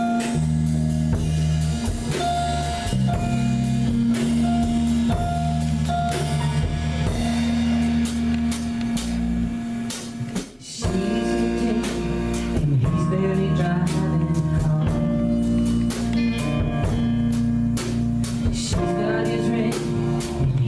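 Live band playing the instrumental opening of a country song, with drum kit and guitar over sustained held chords. The music drops back briefly about halfway through, then the full band comes back in.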